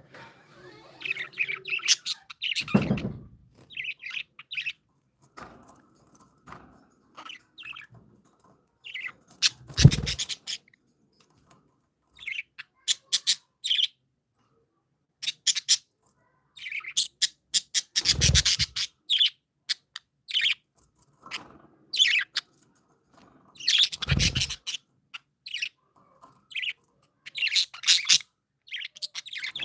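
Pet budgerigars chirping and chattering in many short bursts, with four louder low thumps spaced several seconds apart.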